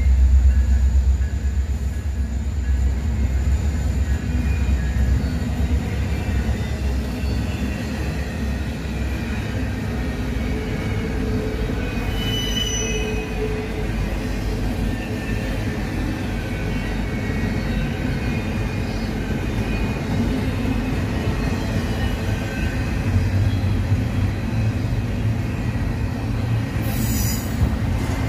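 Double-stack intermodal freight train rolling past, with a steady rumble of cars over the rails. A heavier low rumble fades about two seconds in. Faint high wheel squeals come and go.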